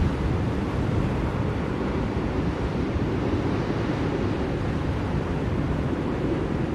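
Blizzard wind blowing steadily, a deep even rushing noise.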